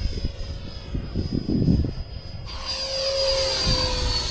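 Electric ducted-fan RC jet whining in flight, its fan tone sagging slightly in pitch as it passes, with a rushing hiss building about two and a half seconds in. Wind buffets the microphone with a low rumble.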